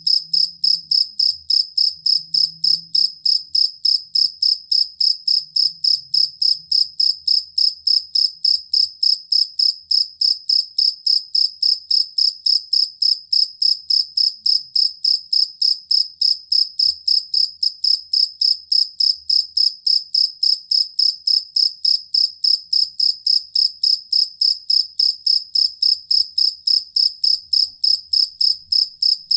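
Field cricket (jangkrik kalung) singing a steady, unbroken run of evenly spaced high chirps, about three a second, without pause.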